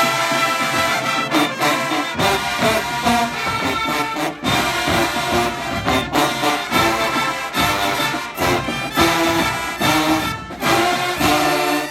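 HBCU show-style marching band brass (trombones and trumpets) playing loudly, with percussion hits joining about two seconds in. The music stops abruptly at the end.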